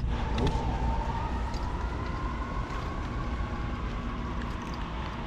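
A siren wailing, its pitch sliding slowly down and back up, over the steady low rumble of road traffic. A sharp click at the very start.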